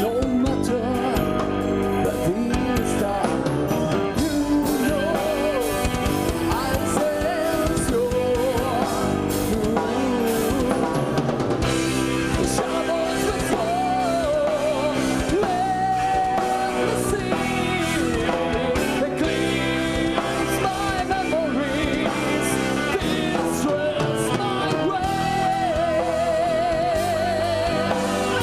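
Progressive metal band playing live: a singer holding long notes with vibrato over electric guitars and a drum kit.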